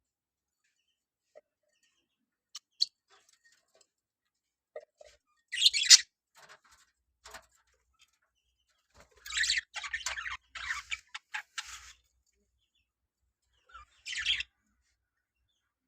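Budgerigars chirping and chattering in short, harsh bursts: a few scattered calls, then a longer run of rapid chirps past the middle and one more burst near the end.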